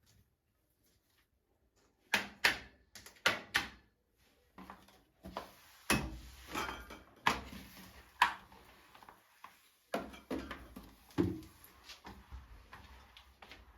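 Household knocks and clatters: a run of sharp knocks and clicks, some loud and some faint, starting about two seconds in after near silence.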